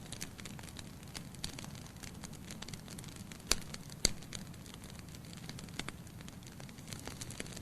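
Logs burning in a fireplace, crackling steadily over a low rumble of flame, with two loud pops about half a second apart near the middle.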